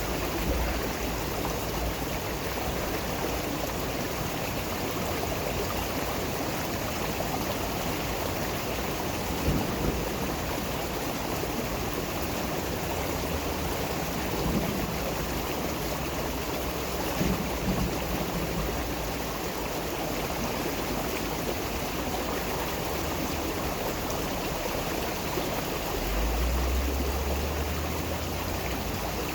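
Steady rushing and babbling water of a stream, with a low rumble for a couple of seconds near the end.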